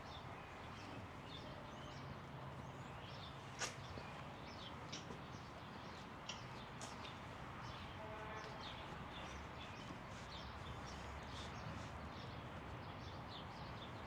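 Faint birdsong: many short, high chirps over a low, steady background hum. There is one sharp click about three and a half seconds in.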